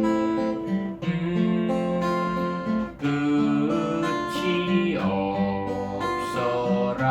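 Acoustic guitar fingerpicked in a waltz-time arpeggio, playing the basic pattern of six notes to a three-beat bar through a chord progression.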